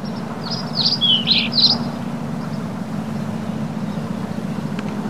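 A small bird chirping, several quick high sweeping notes between about half a second and two seconds in, over a steady low hum.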